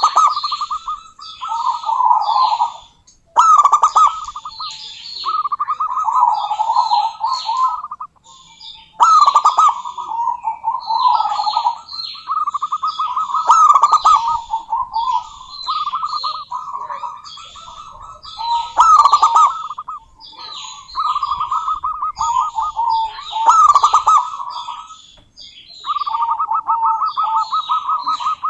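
Zebra dove cooing: phrases of fast, rattling coos one after another, with short gaps, and high-pitched chirping over them.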